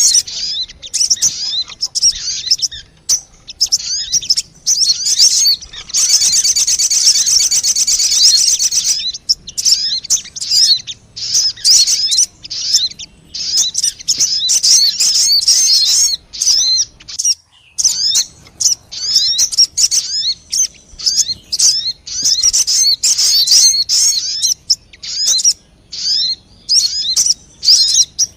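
Sogon bird lure calls: a dense, unbroken run of quick high chirps and sweeping notes, with a sustained buzzy trill about six to nine seconds in.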